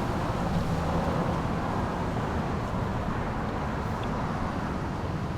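Steady hum of road traffic on a nearby highway, a continuous low rumble with no single car standing out.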